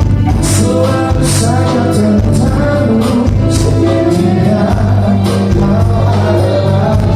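Live band music: a song with singing over a steady bass line and percussion.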